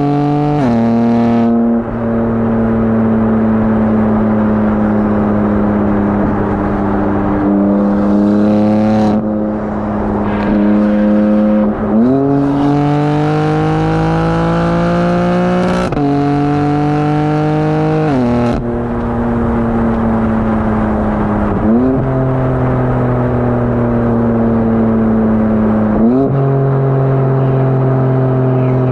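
BMW M4 Competition's twin-turbo inline-six with high-flow cats and downpipes, driven hard. The exhaust note rises and falls with the revs, with sudden pitch changes at several gear shifts.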